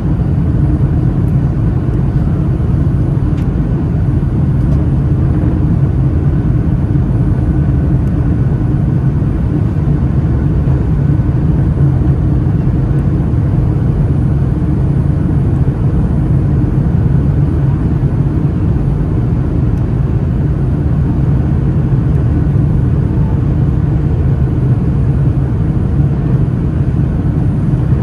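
Steady low rumble inside the cabin of a Boeing 757-200: engine and airflow noise, holding even with no thump or surge.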